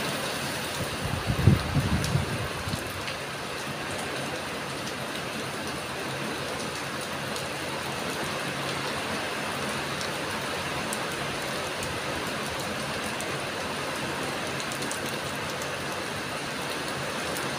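Heavy rain pouring down in a steady hiss. A brief low rumble about a second in is the loudest moment.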